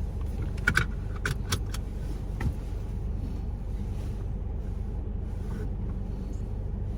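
Steady low hum of a car's engine running, heard from inside the cabin. A few sharp clicks and rattles come in the first couple of seconds.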